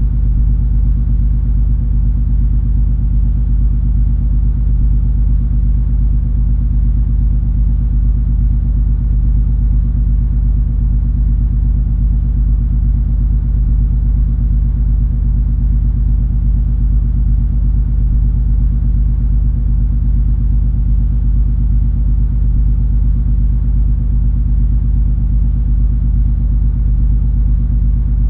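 Steady low drone of the cruise ferry MS Color Fantasy under way: an unchanging rumble with a constant hum of several low tones.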